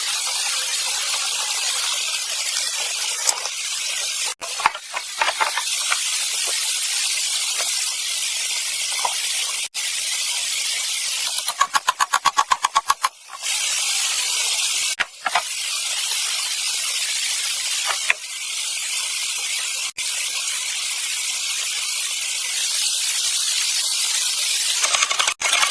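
A steady, loud hiss, with a quick run of short rapid strokes about halfway through and a few sudden brief breaks.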